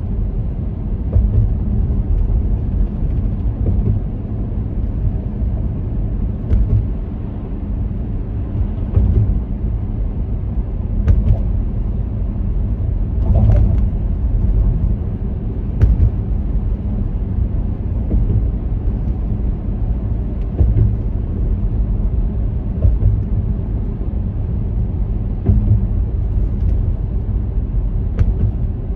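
Steady low rumble of a car driving on city roads, with a few short knocks spread through it.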